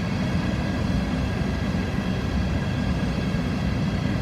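Empty coal hopper cars of a long freight train rolling slowly past, a steady low rumble of steel wheels on the rails.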